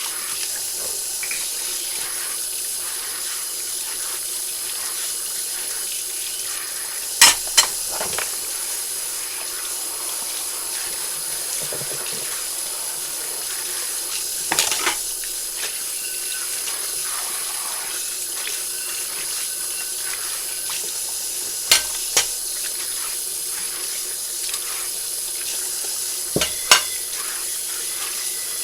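Tap water running steadily into a kitchen sink during dishwashing, with sharp clinks of dishes knocking together four times, sometimes as quick double knocks.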